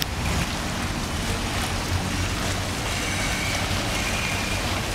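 Steady low engine rumble under a constant hiss of outdoor noise, with no break or change.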